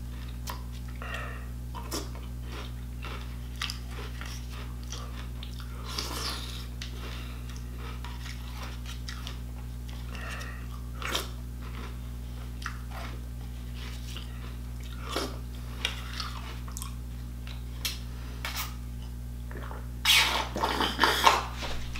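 A person chewing and crunching nearly stale Cinnamon Toast Crunch cereal with milk, with scattered short crunches and spoon clicks against a plastic bowl. About twenty seconds in, loud slurping as the milk is drunk straight from the bowl.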